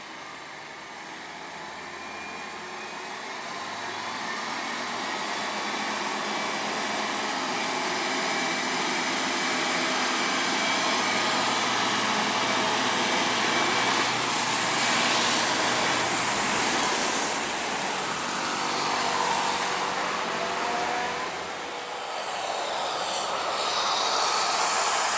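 UD Quester CDE 280 truck running under load, a continuous noisy drone that grows louder over the first several seconds, dips briefly near the end and rises again; this is the strange noise the truck is said to make.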